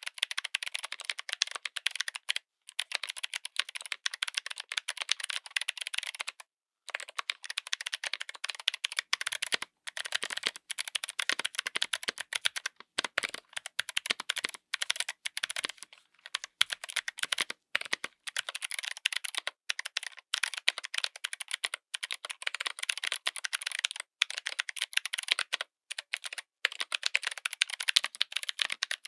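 Continuous fast typing on a mechanical keyboard with clicky switches: a dense run of sharp, crisp clicks broken by short pauses every second or two.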